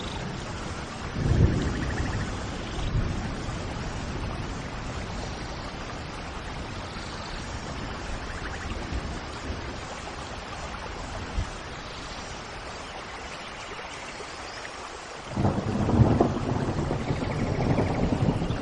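Steady rain with rolls of thunder: a short rumble about a second in and a louder, longer one starting near the end. Faint bird chirps come through the rain now and then.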